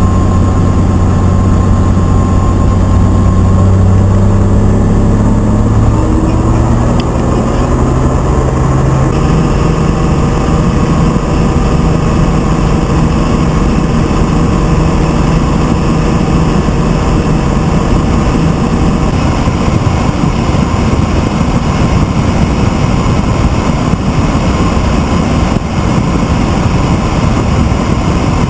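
Helicopter engine and rotor noise, loud and continuous, its pitch rising over the first several seconds and then holding steady.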